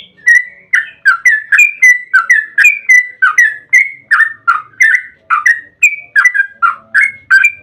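Yellow-vented bulbul (trucukan) singing a long, fast run of short whistled notes, about three a second without a break, each slurring quickly down in pitch. This is the long chattering song (ropel panjang) kept as a lure to set other bulbuls singing.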